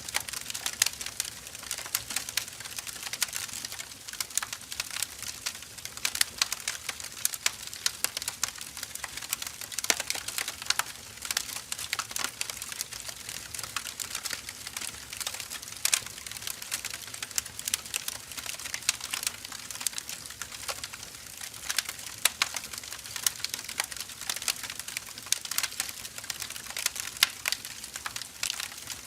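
Split firewood logs burning, crackling steadily with many irregular sharp pops over a faint hiss.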